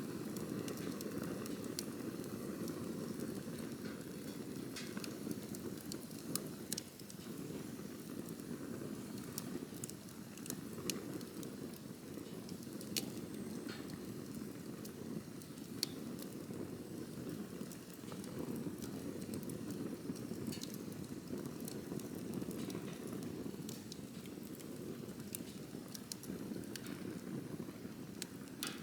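Campfire burning: a steady low rush of flame with frequent irregular crackles and pops of burning wood, a few pops standing out louder.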